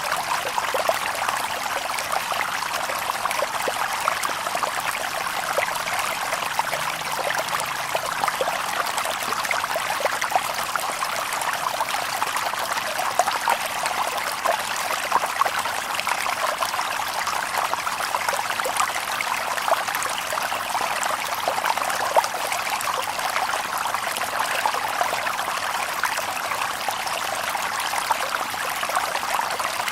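Shallow stream babbling over stones: a steady, bright trickling and splashing with no deep rumble.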